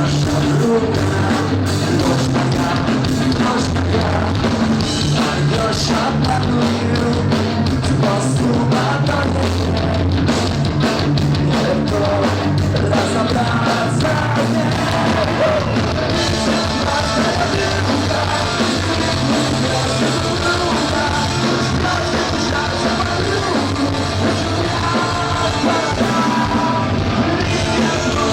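Rock band playing a punk-rock song at full volume, with a steady drum beat and a lead voice singing over it.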